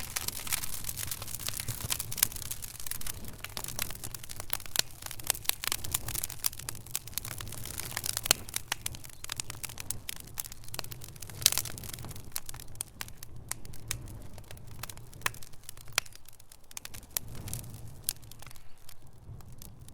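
Wood fire crackling in a fireplace: dense, irregular pops and snaps over a low rumble of burning, with sharper pops about two seconds in and about eleven and a half seconds in.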